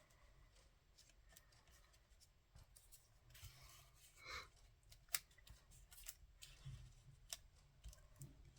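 Faint rustling and a few sharp, scattered clicks of paper and cardstock pieces being handled and repositioned.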